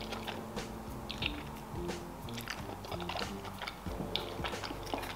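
A person chewing a mouthful of creamy fettuccine pasta, with soft irregular mouth clicks, over quiet background music.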